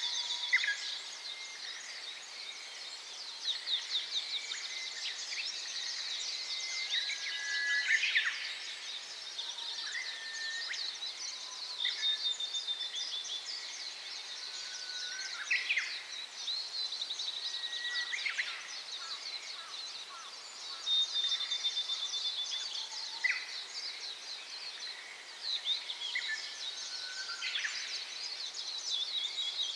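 Small songbirds chirping and whistling in many short calls and trills, over a faint steady hiss of a mountain stream.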